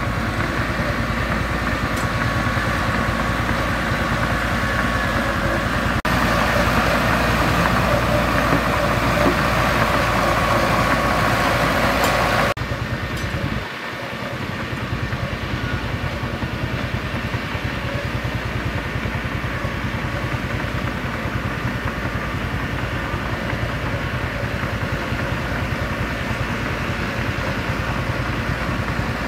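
Mitsubishi BD2G bulldozer's diesel engine running steadily as the dozer works. About twelve seconds in the sound changes abruptly, its brighter upper part dropping away while the engine carries on.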